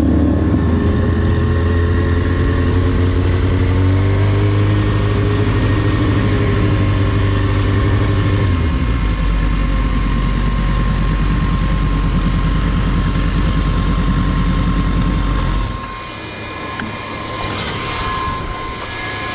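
Motorcycle engine under way, rising in pitch for the first few seconds, stepping down about eight seconds in, then dropping to a much quieter sound about sixteen seconds in as the bike slows. A thin steady high whine runs alongside and falls in pitch at the very end.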